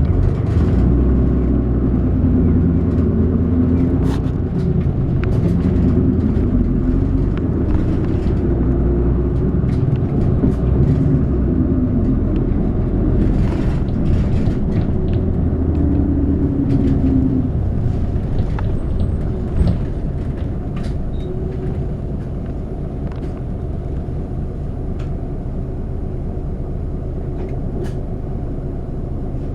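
City bus heard from inside the cabin while driving: steady engine and road rumble, with the engine note rising and falling in the first half and light rattling clicks throughout. It gets a little quieter after about twenty seconds.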